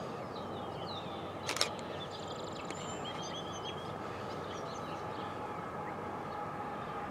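Distant approaching diesel freight train, a steady low rumble, with small birds chirping over it and one sharp click about a second and a half in.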